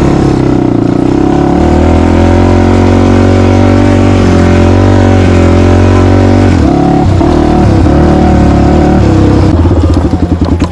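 Off-road vehicle engine running hard and loud, holding a steady engine note, with a brief break and a change in pitch about six and a half seconds in.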